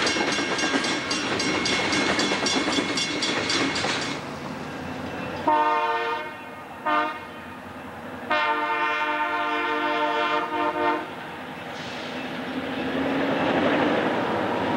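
Freight cars rolling past with a rapid, even clatter of wheels over the rail and a thin steady squeal. After a cut, a Grand Trunk Western diesel locomotive's air horn sounds a blast of about a second, a brief toot and a long blast, as a road-crossing signal. Then the rumble of the locomotive rises as it reaches the crossing.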